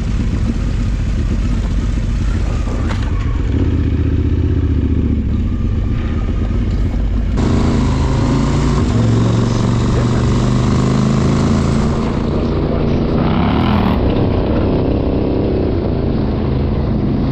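Adventure motorcycle's parallel-twin engine running steadily while riding, its note changing abruptly about seven seconds in.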